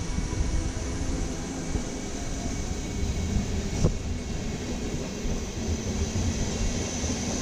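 NS DD-AR double-deck coaches and class 1700 electric locomotive pulling out: a steady low rumble of wheels on the track with a faint hum, and one sharp click about four seconds in.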